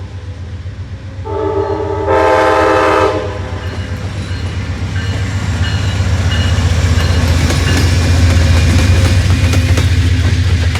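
Amtrak Downeaster passenger train passing: one horn blast of about two seconds, starting about a second in and growing louder partway through. The diesel locomotive's engine rumble and the wheel noise then build steadily as the train draws close, with wheels clicking over rail joints near the end.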